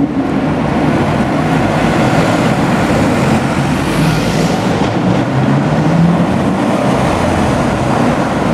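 Lamborghini Aventador's V12 engine running loudly as the car drives slowly past at low speed in traffic, its note rising slightly about six seconds in.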